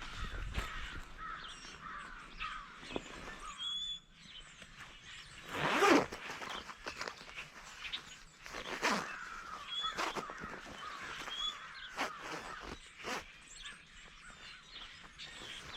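Crows cawing several times, the loudest call about six seconds in, with brief high chirps from small birds in between.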